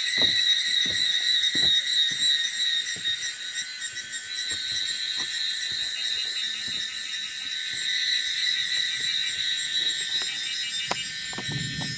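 Steady, high-pitched chorus of calling insects with a fine pulsing trill, over scattered faint ticks, and a short low rumble near the end.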